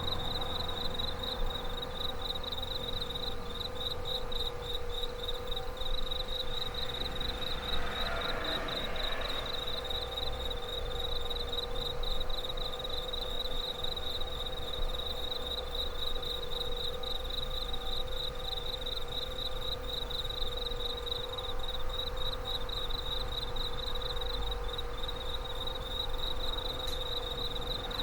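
Insects chirping in a steady, fast-pulsing high trill, over a steady hum.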